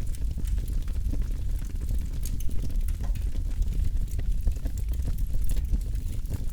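Campfire burning, with frequent small irregular crackles and pops over a steady low rumble.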